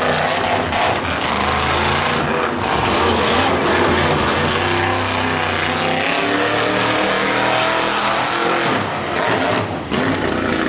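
Monster truck engine running hard on the track, its pitch climbing and falling as the throttle is worked.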